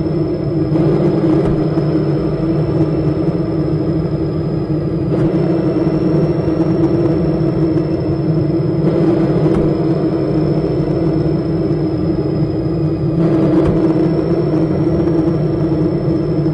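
Mark VII Aqua Jet GT 700 automatic car wash running: a steady, loud rumble with a faint high whine that wavers slightly in pitch.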